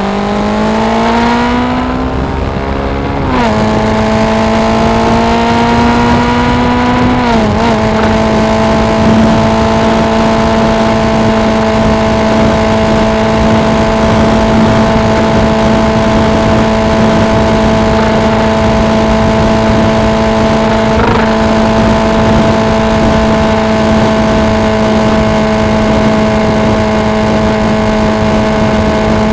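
Suzuki V-Strom 250's parallel-twin engine accelerating through the gears. Its pitch climbs, drops at upshifts about three and seven seconds in, then holds steady at cruising speed.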